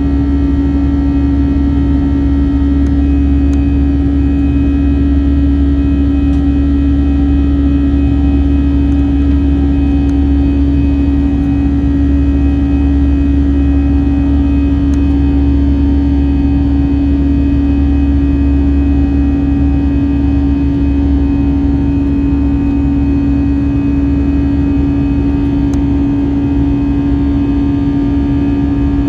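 Airbus A321 airliner cabin noise: a steady engine drone with a strong, even hum and low rumble, unchanging throughout.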